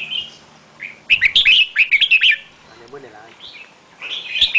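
A bird singing: phrases of quick, short chirped notes, one burst about a second in and another near the end.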